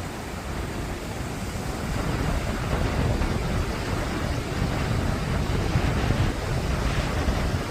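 Wind gusting on the microphone over the wash of surf on a beach, a steady rough rushing heaviest in the low end that grows louder about two seconds in.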